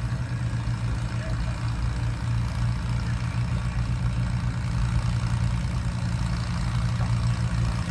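Antique farm tractor engine running steadily at idle with a low, even drone.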